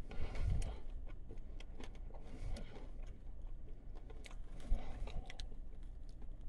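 A man chewing a chicken wing, with scattered small clicks and a few soft knocks over a low steady hum.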